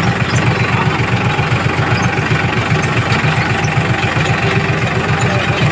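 Farmtrac 42 tractor's diesel engine running steadily with a fast, even low chug.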